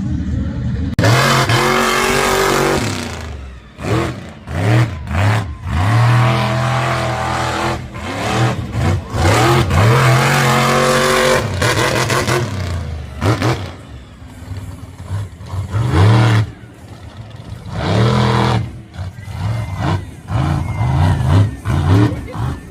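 Monster truck engines revving hard in repeated bursts, the pitch climbing and dropping again and again, with short lulls between the bursts.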